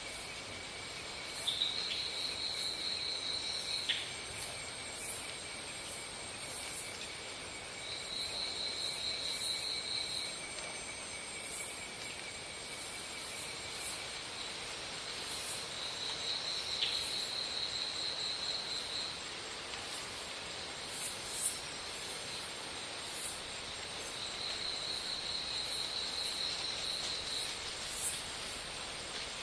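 Insects calling: a steady high-pitched drone, with a pulsed trill of two to three seconds that comes back about every six seconds.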